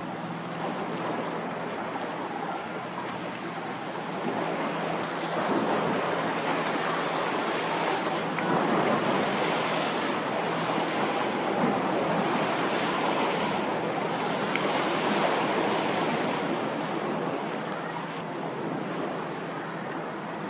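Rushing, surf-like water noise that swells from about four seconds in and eases off near the end, over a faint steady low hum.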